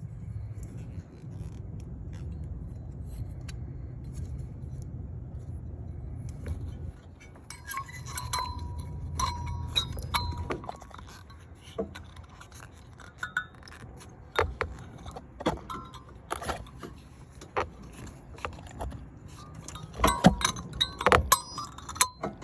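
Metal tools and parts clinking and tapping, some strikes ringing briefly, with a cluster of clinks about halfway through and a louder cluster near the end. A low rumble runs under the first half.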